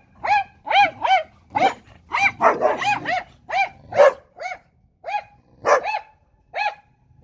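A dog barking over and over at a bird feather, in short high-pitched barks about two a second, with a brief pause about two-thirds of the way through.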